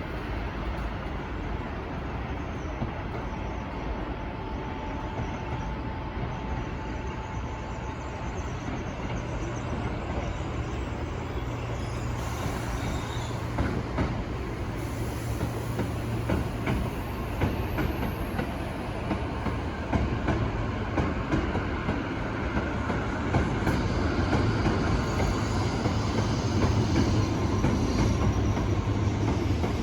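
A train running on the rails, with wheel-on-rail noise and some clatter, growing steadily louder as it approaches.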